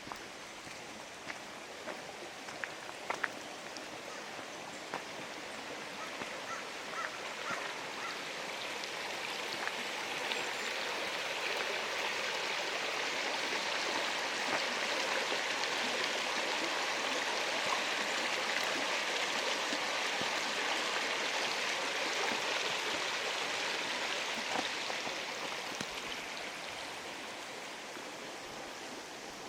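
Running water of a stream in a rain-soaked forest, swelling to its loudest in the middle and fading again, with scattered sharp ticks in the first few seconds.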